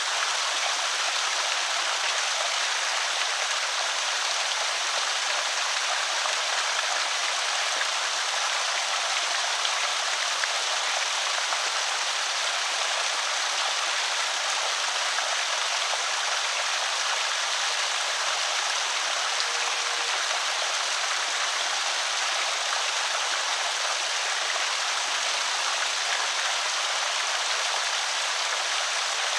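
Water pouring and trickling steadily over a small creek spillway.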